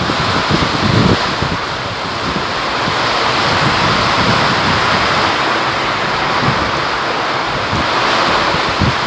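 Heavy rain pouring down in a strong windstorm, a loud steady rush, with gusts of wind buffeting the microphone, most strongly about a second in.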